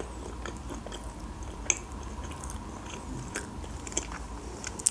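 Close-miked chewing of a baked sushi roll: soft, wet mouth sounds with a few sharper clicks, one about a second and a half in and a couple near the end.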